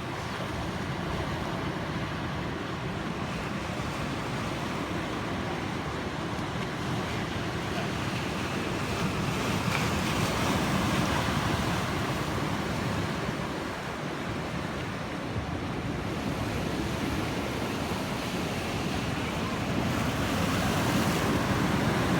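Ocean surf washing in on a beach: a steady rush of breaking waves that swells louder about ten seconds in and again near the end, with wind buffeting the microphone.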